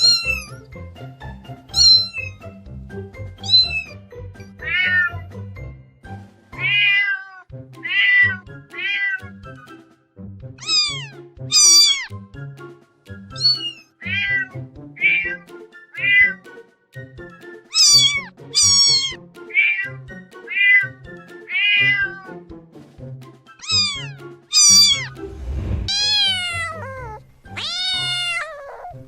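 Domestic cat meowing again and again in short calls that fall in pitch, over background music with a low beat. Near the end come two longer, drawn-out meows.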